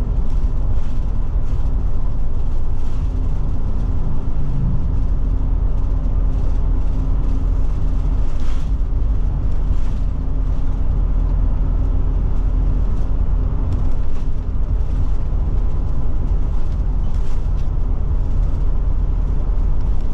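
Steady drone of a Forest River Forester motorhome driving at road speed, heard from inside the cab: low engine hum and road noise, with scattered light clicks or rattles. About four seconds in there is a brief rise in engine pitch.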